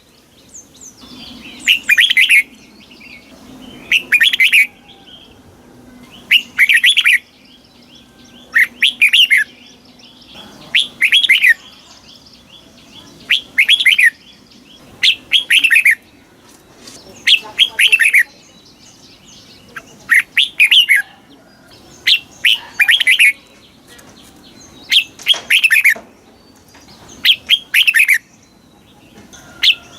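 Red-whiskered bulbul singing short, loud, bright phrases, one about every two seconds.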